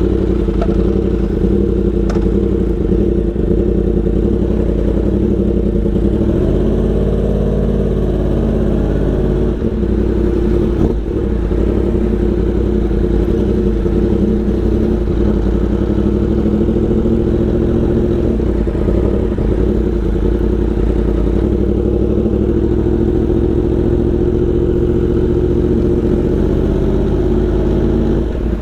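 Yamaha R1 sportbike's inline-four engine running at a steady cruise, its pitch dipping briefly and rising again about a third of the way in, over a heavy low rumble of wind and road.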